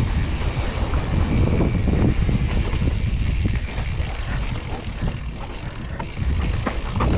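Mountain bike running fast down a rough trail: wind buffeting the microphone, tyre rumble on dirt and the frame and chain rattling over bumps. It eases off for a couple of seconds near the middle, then picks up again.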